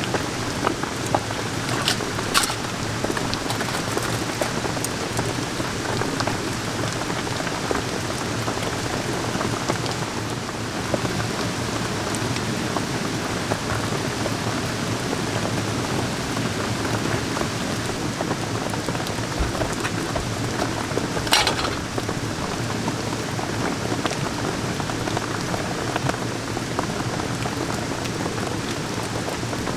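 Steady rain falling, with a few sharp clicks scattered through it; the loudest comes about 21 seconds in.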